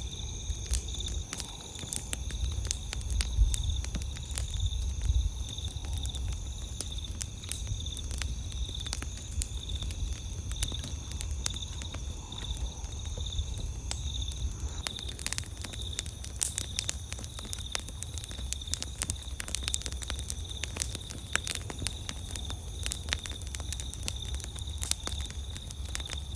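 Campfire crackling, with sharp pops and snaps that come thicker about halfway through. Under it runs a steady high-pitched trill of the night surroundings.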